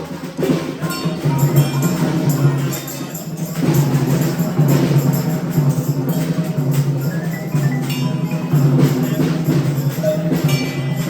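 Percussion instruments being played: a busy, continuous mix of wooden taps and short ringing notes.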